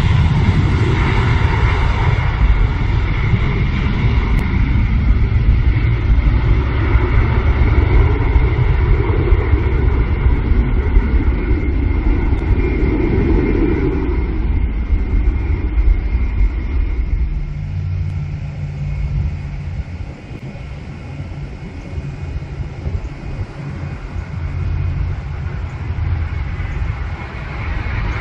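Airliner jet engines passing close: a loud rumble with a steady high whine, dying away about two thirds of the way through and leaving a fainter low hum.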